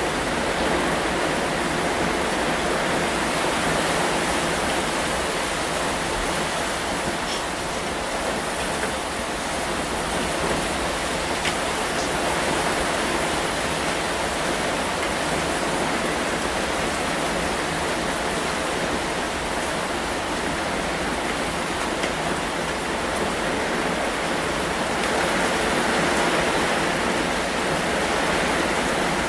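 Steady heavy rain, a continuous dense hiss that swells slightly near the end. No thunder is heard.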